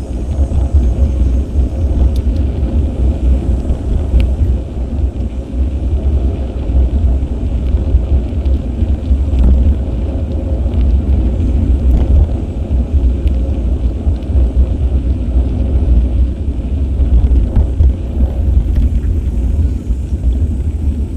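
Wind buffeting an action camera's microphone during a bike ride: a loud, steady low rumble that flutters in level, with a few faint clicks.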